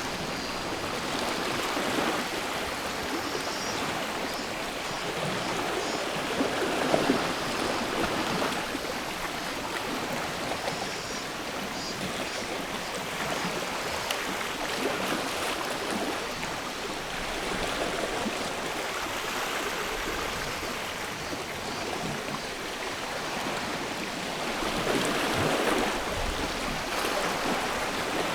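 Sea waves washing in on the shore, swelling every several seconds. Cicadas trill faintly in the first half.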